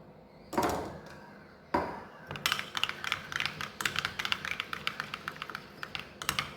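Two knocks, then a spoon clicking rapidly against a small bowl, several clicks a second, as it stirs maida flour and water into a sealing paste.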